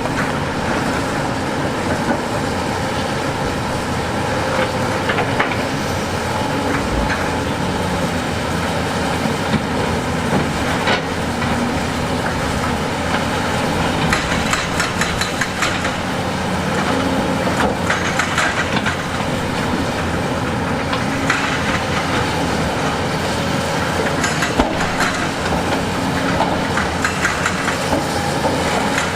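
Heavy diesel construction machinery running steadily, with scattered metallic clanks and knocks, likely from tracks and steel on rock.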